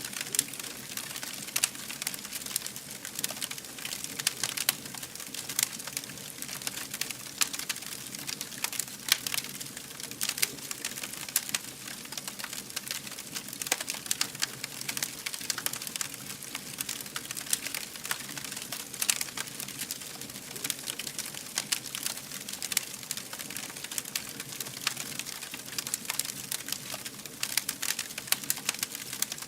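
Wood fire burning with a dense, irregular crackle of small pops and snaps over a steady hiss.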